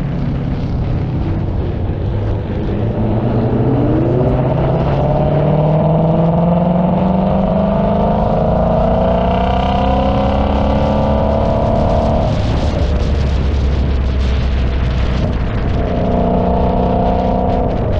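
Car engine pulling under throttle, its pitch rising slowly for about ten seconds, then dropping sharply as the throttle lifts, and running steady after that over a constant road rumble.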